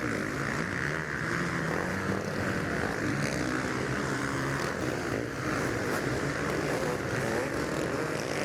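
Many off-road motorcycle engines running hard at once, blending into one steady drone.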